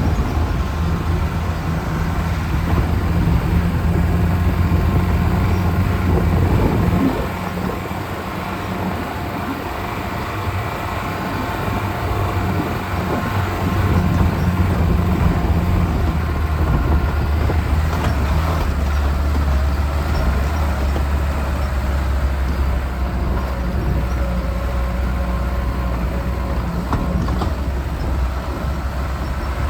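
Lada Niva's engine running steadily as it drives an off-road track. It eases off about seven seconds in and pulls harder again around fourteen seconds, with a few knocks.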